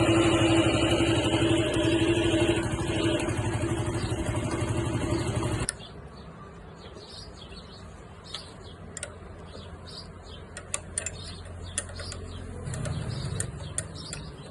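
Honda CD 70 motorcycle's small single-cylinder four-stroke engine running steadily for about six seconds, carrying the noise that the mechanic puts down to a worn clutch bearing, then cutting off abruptly. Afterwards faint bird chirps and a few light clicks.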